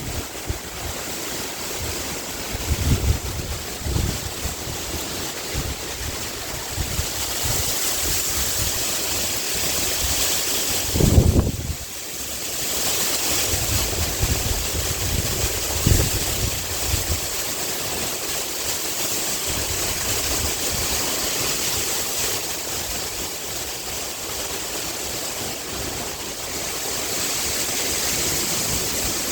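Sea wind rustling through a bamboo grove: a steady leafy hiss that swells and eases, with gusts buffeting the microphone, the strongest about eleven seconds in.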